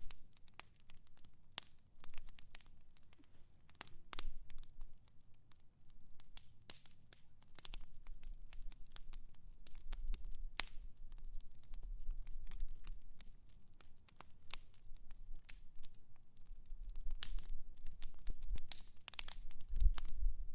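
Fire crackling: irregular sharp snaps and pops over a low rumble, with a louder low thump near the end.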